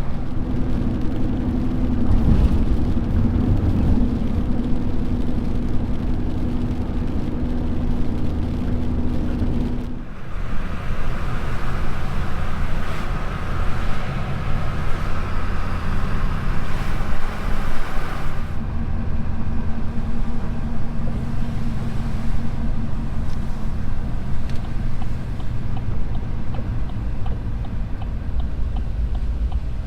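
Vehicle engine and road noise while driving, a steady low rumble. The sound changes character about ten seconds in and again around eighteen seconds.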